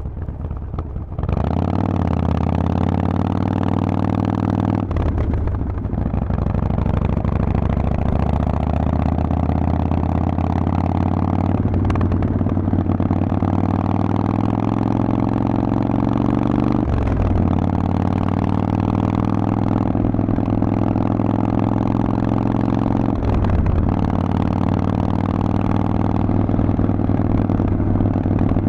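Harley-Davidson Forty-Eight's 1200 cc air-cooled V-twin running through a Vance & Hines exhaust. It opens up about a second in, then pulls up through the gears: the engine note climbs slowly and dips briefly at each of four upshifts.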